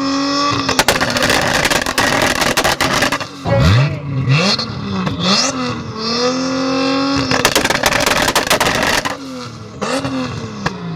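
Tuned turbocharged car engine revved up onto a two-step launch limiter several times, each held hit breaking into a long run of rapid exhaust bangs and crackles. The biggest runs of bangs come about a second in and again about seven seconds in, with short rev blips between.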